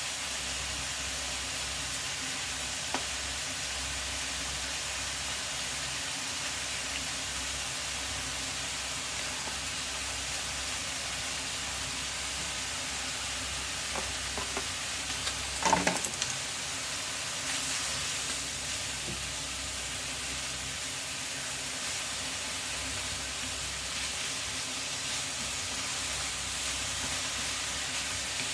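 Maitake mushrooms frying in a pan: a steady sizzling hiss, with a brief clatter a little past halfway.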